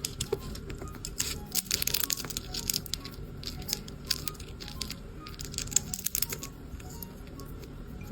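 Irregular crisp crackling and clicking of a sugar glider chewing and handling a snack, with soft background music underneath.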